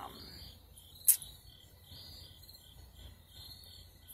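Crickets chirping in a steady rhythm in the background, with a single sharp click about a second in.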